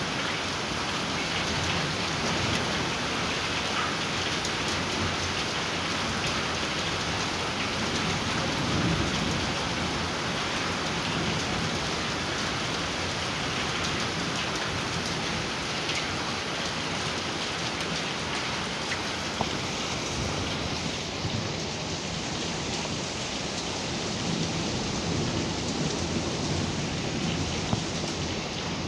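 Heavy rain pouring steadily in a thunderstorm, with low rumbles of thunder about nine seconds in and again near the end.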